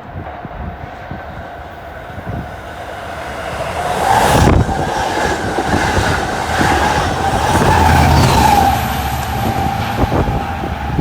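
A train passing close by, its wheels clicking over rail joints under a rumble. A steady high whine swells about four seconds in and eases off near the end.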